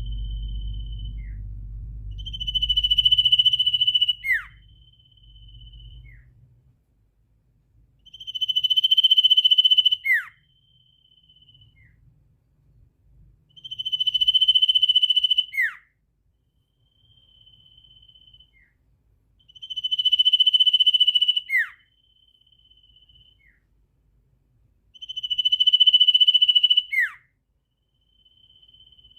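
A sirtu calling in 'ngetir' style: a shrill, buzzy trill of about a second and a half that ends in a quick falling note, repeated about every six seconds, with a fainter short trill between. A low rumble underlies the first few seconds.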